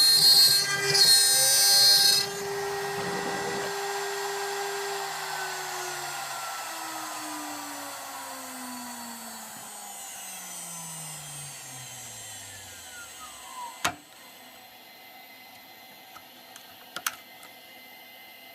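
CNC router spindle running with a high-pitched whine, then switched off about two seconds in and spinning down, its whine falling slowly in pitch for about ten seconds. A sharp click near the end of the spin-down, then a few faint clicks.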